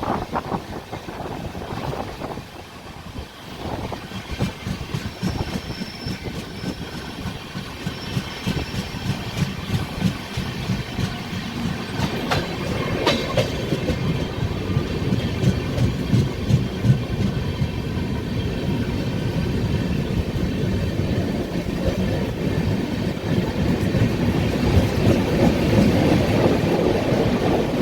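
The Rajdhani Express passenger train running on the rails, its wheels clattering over rail joints with a steady rumble underneath. It gets louder through the stretch, loudest near the end.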